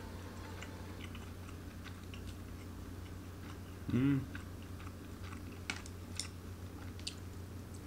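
A man chewing a mouthful of yakitori, with small wet mouth clicks scattered through. About four seconds in comes a brief voiced sound from him, the loudest moment, over a steady low hum.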